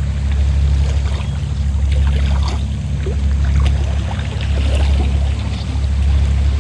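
Fishing boat engine running with a steady low hum, with small splashes of sea water over it.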